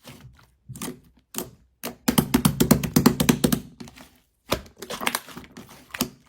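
Slime being pressed and squished by hand, giving sharp clicking and popping air-bubble sounds. A dense, rapid run of clicks comes about two seconds in and lasts over a second, with scattered single clicks around it.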